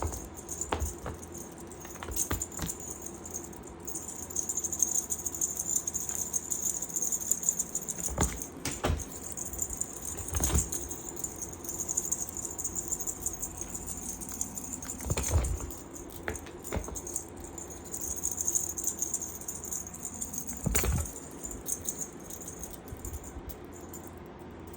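A cat-teaser toy jingling and rattling as it is shaken and flicked, with several dull thuds as the cat pounces and lands.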